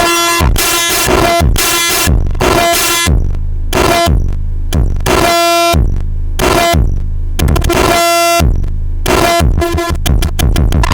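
Electronic noise music from synths and a feedback loop run through a Korg NTS-3 effects unit. Chopped blocks of distorted pitched tones and noise over heavy bass come in an uneven stuttering rhythm, with brief dropouts and falling sweeps.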